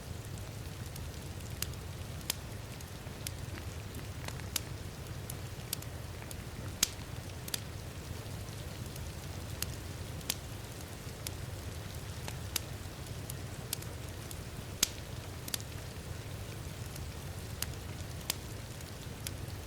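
Wood fire crackling in a fireplace, with sharp pops at irregular intervals, roughly one a second, over a steady low rumble and falling rain.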